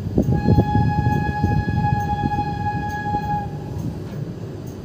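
Freight train wagons rumbling and clattering over the rails as they pass, with one long steady horn blast from just after the start to about three and a half seconds in.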